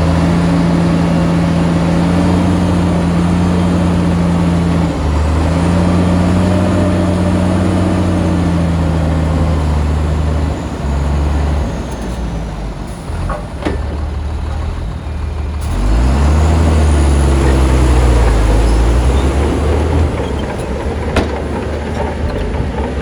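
Heavy diesel engine of earthmoving machinery working under load, its pitch rising and falling as it revs. It eases off to a lower, quieter running for a few seconds past the middle, then revs up hard again. A few light clicks and knocks sound over it.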